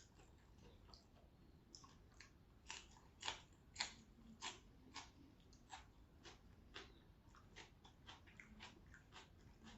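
A person chewing crunchy raw vegetables close to the microphone: a quick, even run of crisp crunches, about two to three a second, loudest around three to four seconds in.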